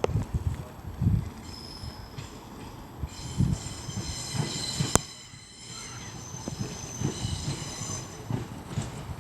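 Diesel multiple unit pulling slowly into the platform, its brakes squealing in several high tones with a low rumble and knocks from the wheels, and a single sharp click about five seconds in.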